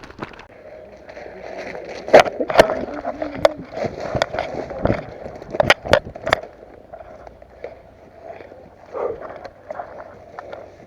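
A run of sharp clicks and knocks, about seven of them between two and six and a half seconds in, over a steady rustling noise.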